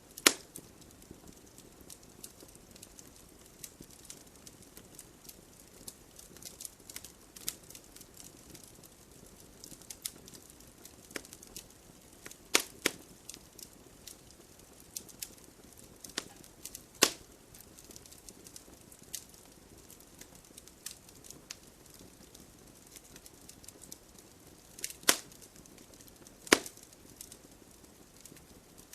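Wood fire of burning logs crackling: a low steady hiss of flame under constant small irregular snaps, with a few loud sharp pops from the wood every few seconds.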